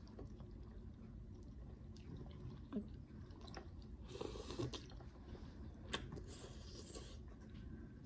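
A person chewing and biting food close to the microphone, quietly, with soft crunches and small mouth clicks.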